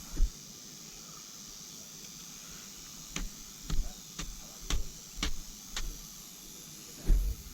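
A thump, then six short sharp knocks about half a second apart, then another loud thump near the end; no chainsaw is running.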